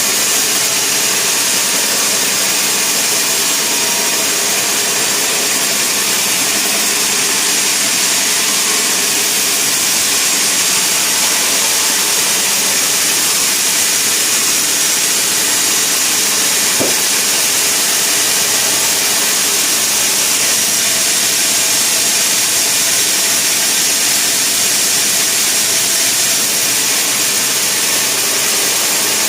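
Sawmill machinery running steadily: a loud, even, hissing noise with no breaks.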